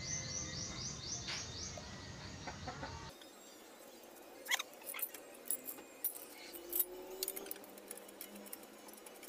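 A bird trilling, a fast run of short falling chirps repeated for about three seconds. Then scattered faint metallic clicks and clinks.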